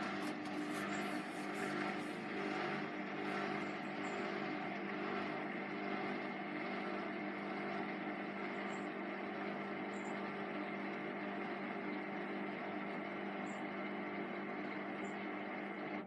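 Hotpoint HE8L493 washing machine running mid-cycle on its Fastwash Eco programme, giving a steady, even motor hum.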